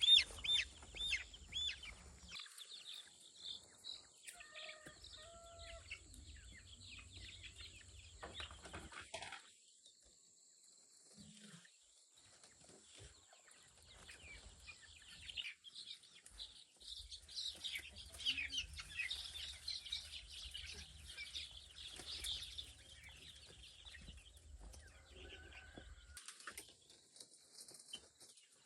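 Chickens clucking and peeping on and off, with a dense patch of short, high chirping calls about two-thirds of the way through.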